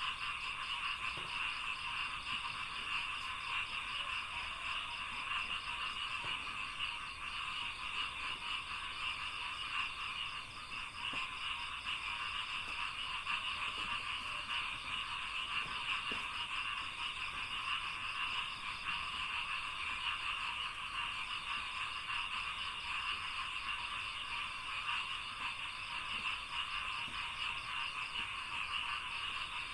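Dense, unbroken chorus of many frogs croaking together, a steady rapid pulsing mass of calls with no pauses, and a thin steady high tone above it.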